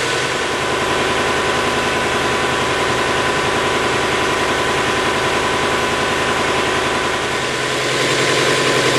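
1996 Subaru Legacy's EJ20 2.0-litre flat-four idling roughly with an uneven, pulsing beat, the effect of a sensor connector being unplugged. About eight seconds in the idle smooths out again.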